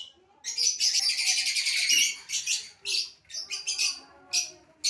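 Flock of small aviary birds chirping, in bursts of rapid high chirps separated by short pauses; the longest burst comes about a second in.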